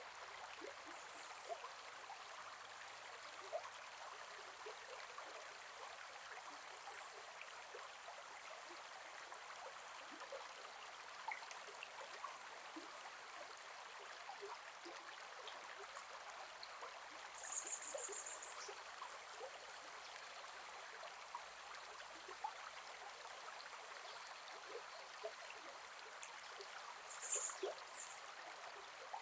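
Gentle forest river flowing: an even rush of water with small plinks and gurgles. A brief high chirp sounds about 18 seconds in and again near the end.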